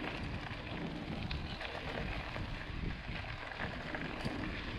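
Wind rumbling on the microphone and tyre noise from a mountain bike rolling along while riding, with scattered small clicks and rattles.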